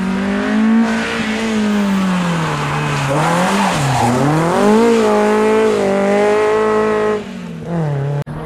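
Peugeot 205 hatchback driven hard through a slalom course, its engine revving up and falling back again and again as the driver accelerates and brakes between gates, with a patch of tyre noise around the middle. The sound breaks off abruptly near the end.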